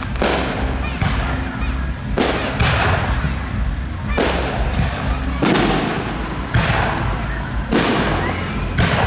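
Fireworks display: aerial shells bursting about once a second, eight bangs in all, each followed by a fading crackle, over a steady low rumble.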